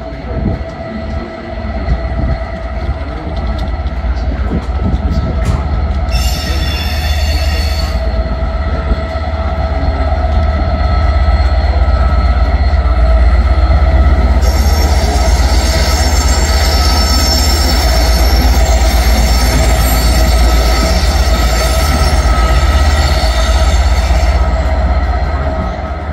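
Class 67 diesel locomotive and its coaches running slowly along the platform: a deep, steady rumble with high-pitched wheel squeal, briefly about six seconds in and then for about ten seconds from the middle, where it is loudest.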